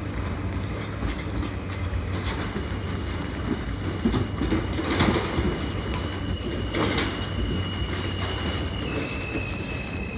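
New York City subway L train running along the track, with a steady rumble and a few wheel clacks over rail joints. A high, thin steady whine or squeal comes in a couple of seconds in and drops slightly in pitch near the end.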